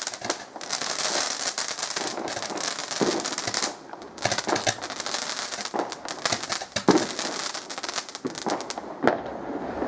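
Fireworks crackling almost without a break, with a few louder bangs scattered through it.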